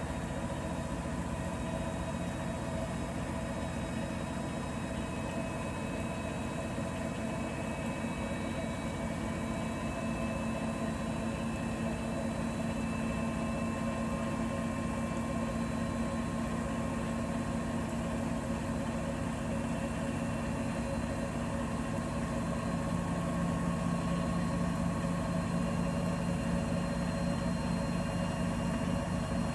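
Bosch Serie 4 front-loading washing machine running mid-cycle: a steady motor hum with a few faint whines that drift slowly in pitch, getting slightly louder about two-thirds of the way through.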